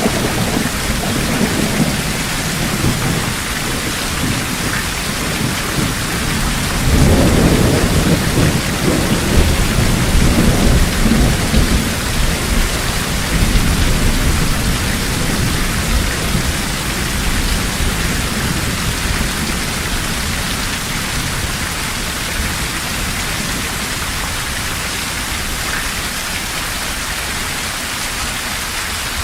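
Heavy rain falling steadily in a forest, with a low rolling rumble of thunder that starts about seven seconds in and fades away over several seconds.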